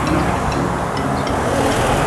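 Wind rushing over the microphone of a moving bicycle, with steady rumble from the ride.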